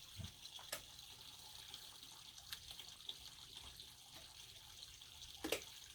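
Faint, steady trickle of running water, with a few soft clicks or taps, the loudest about five and a half seconds in.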